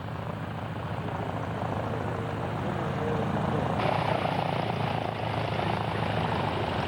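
Piston-engine propeller aircraft running with a rapid low pulsing beat, growing louder over the first few seconds and then holding steady.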